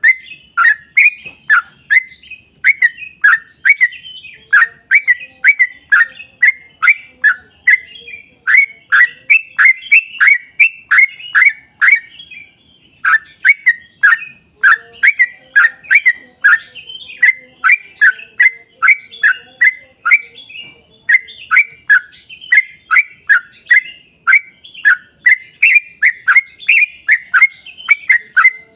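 Yellow-vented bulbul (trucuk) singing energetically: a long, rapid run of short downward-sliding notes, three or four a second, with a brief pause about twelve seconds in.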